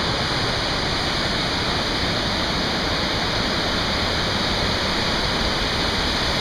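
Muddy Creek Falls, a 53-foot waterfall, pouring heavily down rock: a loud, steady rush of falling water.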